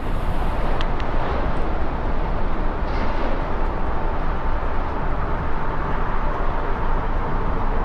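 Steady low rumble of motor-vehicle engines in stopped city traffic, with a faint steady high tone running through it.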